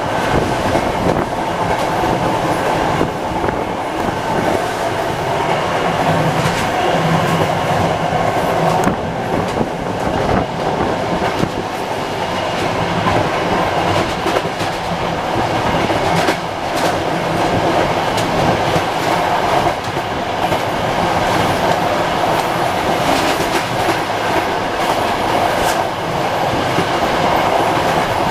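CFR passenger coach running at high speed, heard through an open side door: a loud, steady noise of wheels on rail and rushing air, with frequent sharp clicks from the track.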